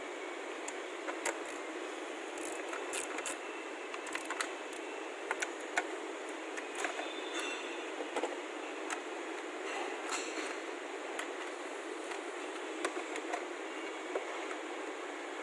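Scattered light clicks and knocks of tools and parts being handled while an ignition coil is removed from the engine, over a steady hiss.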